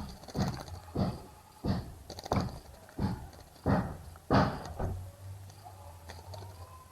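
A bird splashing in a bird bath: a run of short splashes, roughly one or two a second, that stops about five seconds in.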